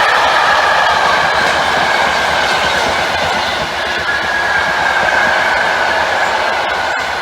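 A train passing close by, its wheels clattering on the rails with a steady high-pitched whine held over the noise, easing off slightly near the end.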